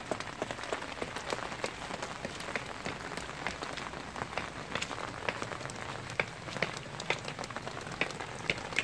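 Steady rain falling, with many separate drops hitting close by at irregular intervals.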